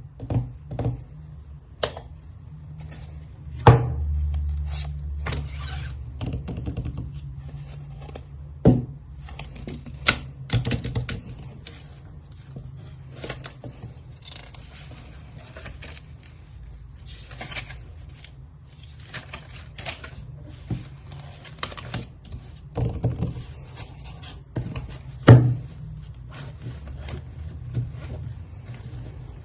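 Touch Twin alcohol marker tips scratching across paper in short repeated strokes, with sharp clicks and knocks every few seconds.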